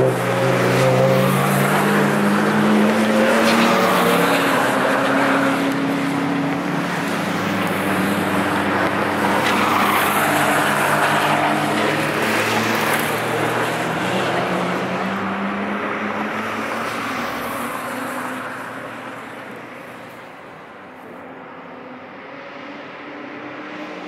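Cars at speed driving past on the Nürburgring Nordschleife, their engines passing with a falling pitch one after another. The sound dies away about twenty seconds in, then builds again as the next car approaches.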